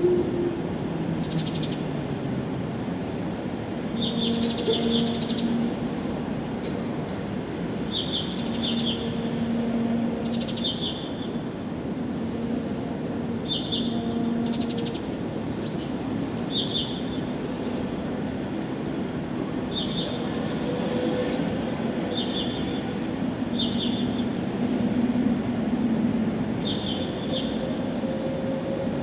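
Songbirds singing short, repeated chirping phrases, one every second or two, over a steady low background rumble with a faint hum.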